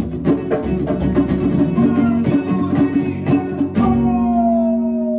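Live guitar and drums playing the last bars of a song in a steady rhythm. A final strum and hit about four seconds in is left to ring, while one long note slides slowly downward over the held chord.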